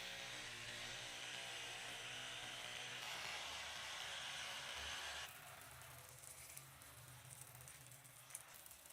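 A power tool running with a steady whir, cutting off suddenly about five seconds in, leaving a quieter background with a few faint clicks.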